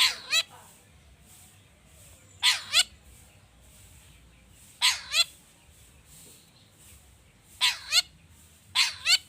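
Long-tailed shrike (cendet) calling: short two-note calls given five times, a pair every two to three seconds.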